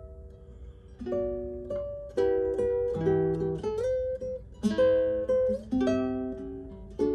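Solo guitar playing a slow melody over plucked chords, with notes sliding up or down into each other; a held note rings quietly for the first second before the playing picks up again.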